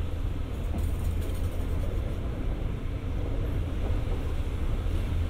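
State Railway of Thailand passenger train running along the track, heard from on board: a steady low rumble with a wash of running noise.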